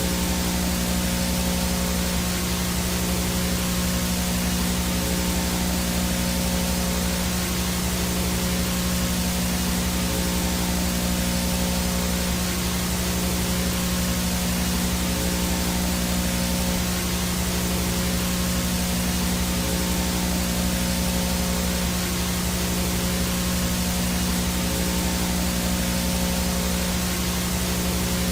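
Analog VHS static with no signal: a steady, even hiss with a low electrical hum beneath it and a thin high tone above, unchanging throughout.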